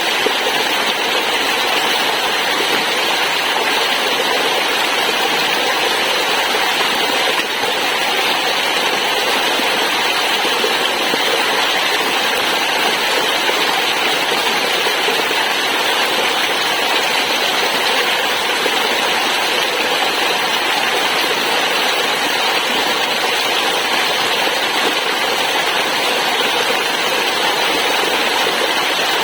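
Waterfall: falling water splashing in a loud, steady, unbroken hiss.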